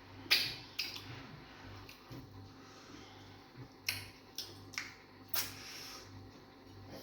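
Eating fufu with egusi soup: a handful of short, sharp, wet mouth clicks and smacks spread through the seconds, over a faint steady low hum.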